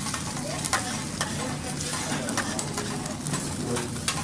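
Food frying and sizzling on a teppanyaki hot plate, a steady hiss broken by a few sharp clicks of the cook's utensils against the plate.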